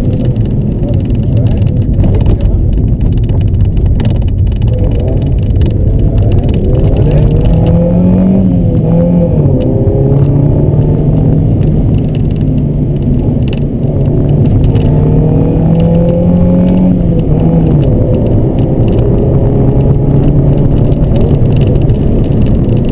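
Honda Civic's D15B2 1.5-litre four-cylinder engine heard from inside the cabin, pulling hard through a slalom run. Its pitch rises and falls several times with throttle and gear changes.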